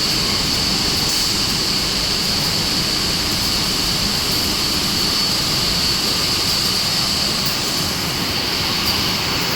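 Wire drawing production line machinery running steadily: a continuous mechanical noise with a constant high whine over it.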